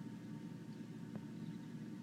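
Steady low hum with a single tap about a second in and a few faint, high chirps of small birds.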